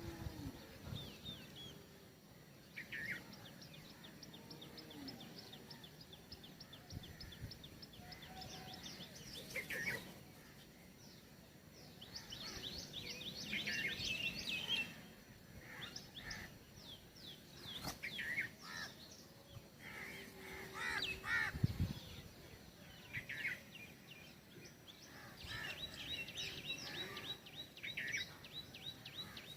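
Small songbirds calling at a feeder: fast trills of rapid high notes and scattered chirps from several birds, with a couple of short knocks.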